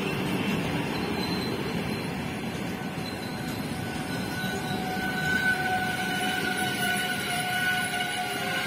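Passenger coaches rolling slowly past, their wheels rumbling over the rails as the train arrives. About halfway through, a thin steady squeal joins the rumble as the train brakes.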